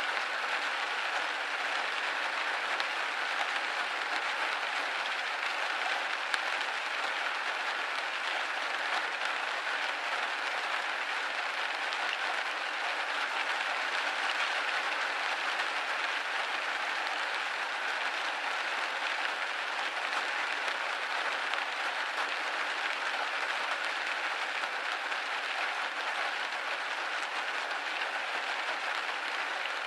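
Steady rain pattering against a window pane, a dense even hiss of many small drop impacts with no low rumble.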